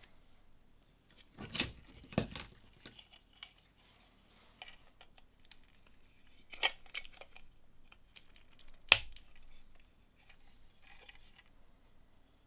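Plastic LEGO pieces clicking and rattling as they are handled and pressed together: a few sharp clicks, the loudest about nine seconds in, with lighter ticks and rattling between.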